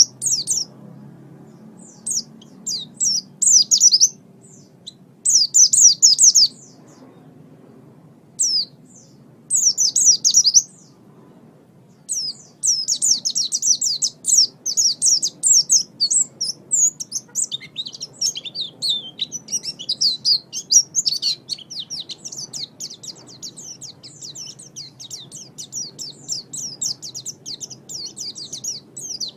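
Pleci (white-eye) singing: rapid, high twittering chirps. They come in short bursts with gaps for about the first twelve seconds, then run as a near-continuous fast warble, over a faint low hum.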